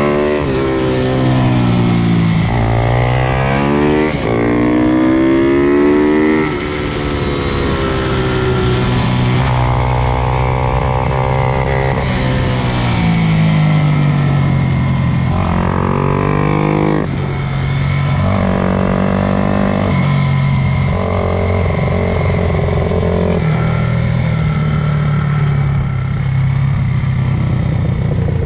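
Several pit bikes racing, their small single-cylinder engines revving up and down over each other, the pitch rising and falling again and again as the riders accelerate and back off.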